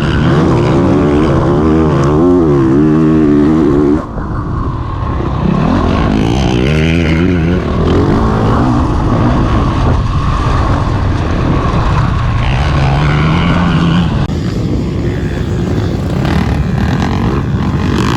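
Single-cylinder four-stroke engine of a 2021 Honda CRF450RX dirt bike being ridden, its pitch rising and falling again and again as the throttle opens and closes. The engine note drops off briefly about four seconds in, then picks up again.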